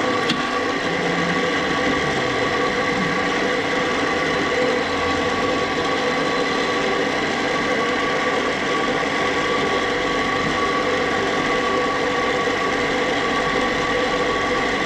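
Flojet 6 GPM 12-volt soft-wash pump running with a steady, even motor whine while trying to prime, nothing coming out of the hose; the owner later traces this to a kink rolled up in the line.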